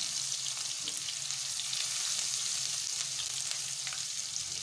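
Ginger-garlic paste and whole spices sizzling in hot oil in a nonstick wok while a spatula stirs them: a steady hiss with small crackles.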